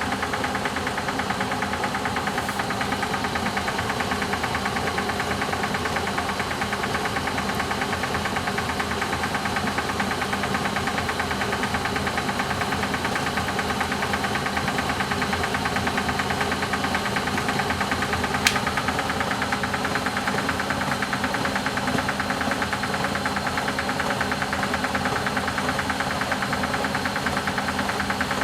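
Eudora Sparmeister 702 washing machine running steadily in its first intermediate spin, the drum turning at a constant speed with a steady hum and a fast, fine rattle. About two-thirds of the way through there is a single brief click.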